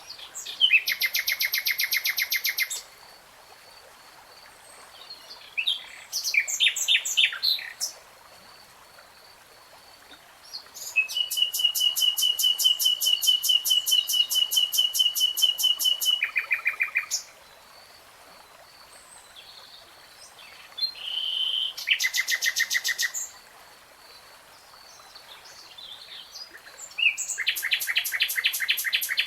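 Nightingale singing: five phrases of very fast repeated notes separated by short pauses, the longest a sustained rattling trill of about six seconds in the middle.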